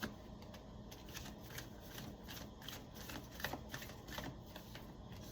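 Tarot cards being shuffled and handled: faint, irregular riffling and soft clicks of the cards.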